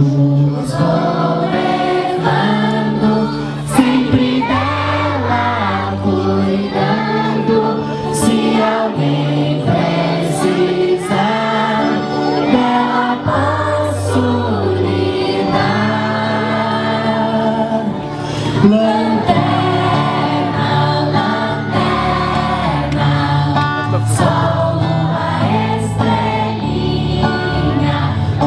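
A group of voices singing a song together over held low accompanying notes.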